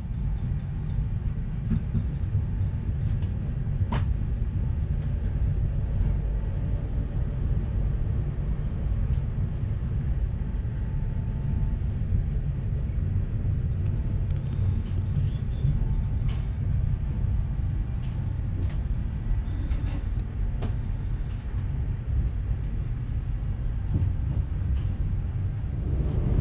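Inter-city passenger train heard from inside a first-class coach: a steady low rumble of the train running, with a few sharp clicks, one about four seconds in and several more later on.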